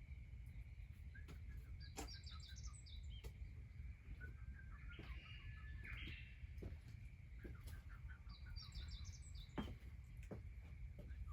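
Faint bird song: small birds give two bursts of rapid, high twittering chirps, the first about two seconds in and the second near the end. Beneath them run a steady faint high tone and a low rumble, with scattered sharp clicks.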